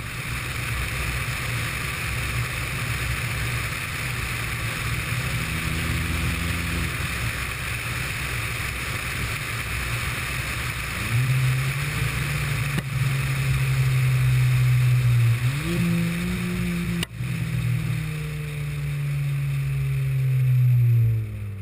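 Ford Fiesta ST's engine and side-exit exhaust droning under way over steady road and wind hiss. It grows louder about half-way through, steps up in pitch once a few seconds later, then winds down near the end.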